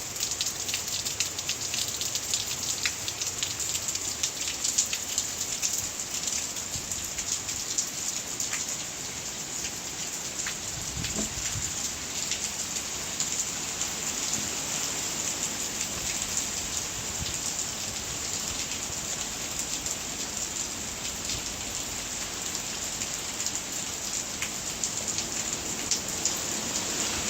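Steady hurricane rain falling, with many close drops ticking against surfaces.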